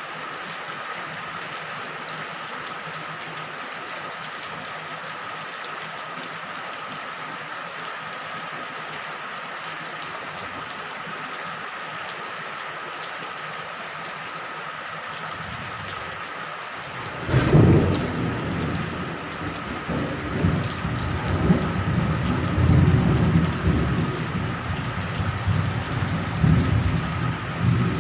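Steady rain falling. About 17 seconds in, a sudden crack of thunder breaks into loud, low rumbling thunder that goes on over the rain.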